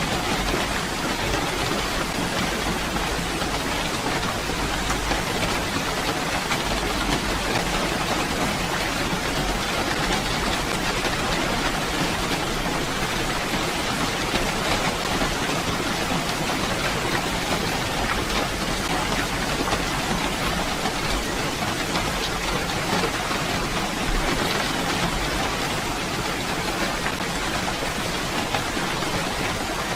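Steady rainfall, an even hiss of drops without breaks.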